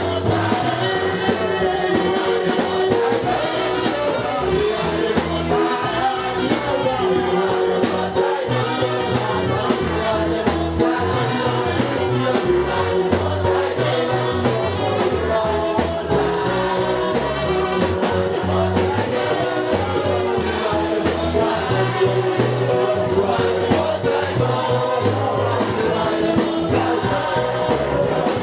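Live gospel worship music: a choir or congregation singing over a band with a steady bass beat.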